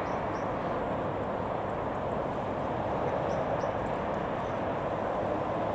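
Steady rumble of a train running out of view, even in level throughout, with a few faint high chirps over it.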